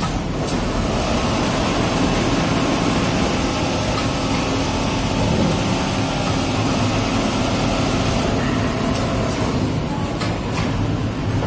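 Automatic CNC template sewing machine running in a garment factory: a steady, dense mechanical noise with a hiss on top, and a few sharp clicks near the end.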